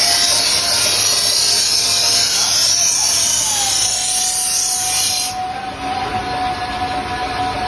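A katana blade being sharpened against an abrasive: a steady, loud scraping hiss. A steady whine enters about three seconds in, and the highest part of the hiss falls away about five seconds in.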